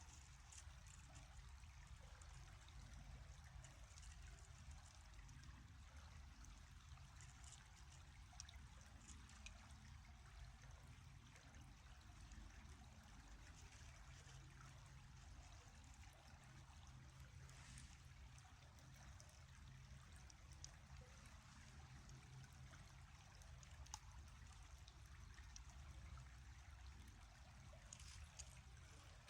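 A river flowing steadily and faintly, with a few soft ticks.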